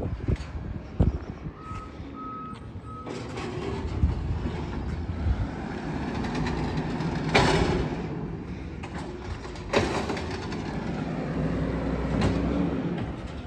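Garbage truck running, its reversing alarm giving three short beeps about two seconds in. A short, sharp hiss comes about halfway through and a smaller one a couple of seconds later.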